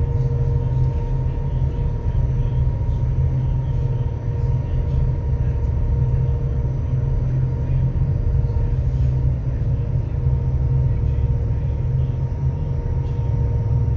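Ferry engines droning steadily: an even low rumble with a constant hum above it, heard on board the moving vessel.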